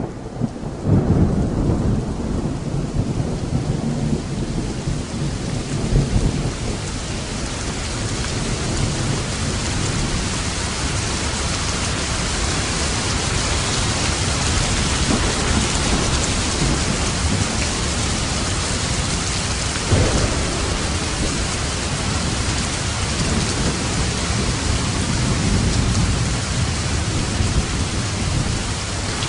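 Thunderstorm: rolling thunder rumbles in the first few seconds and again about twenty seconds in, over heavy rain that builds to a steady downpour.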